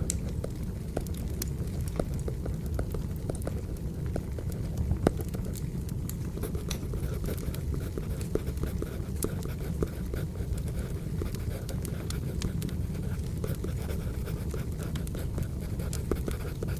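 Wood fire burning: a steady low rumble with frequent sharp crackles and pops, with a pencil scratching on paper over it.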